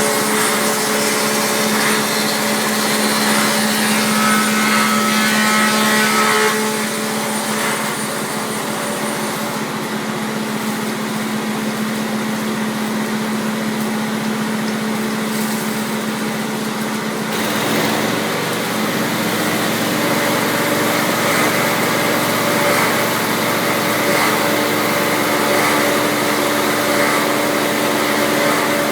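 Taiga OS electric log-rounding machine running steadily with a machine hum. Its tone shifts about six seconds in and again around seventeen seconds.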